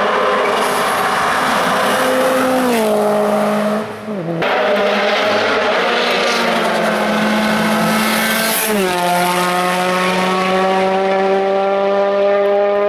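Race car engine held at high revs. The pitch drops in a step about three seconds in, briefly cuts out around four seconds, and drops again near nine seconds, like gear changes, then slowly climbs as the car accelerates.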